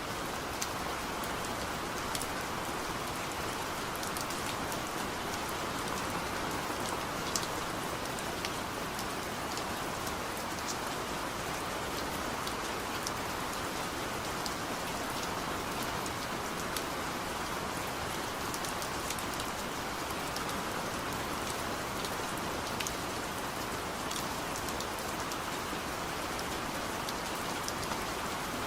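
Steady rain falling on a surface, with individual drops ticking sharply all through it.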